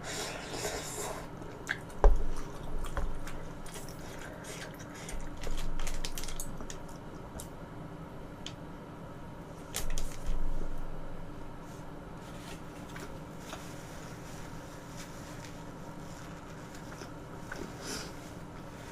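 Close-miked eating: scattered small mouth clicks and chewing sounds, with a few dull low thumps from handling, the loudest about two seconds in.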